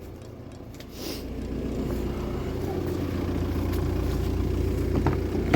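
Car engine idling steadily, a low even hum, with a light click near the end.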